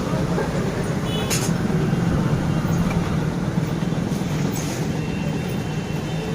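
A steady low mechanical drone, like an engine or motor running continuously, with a couple of faint metallic clicks.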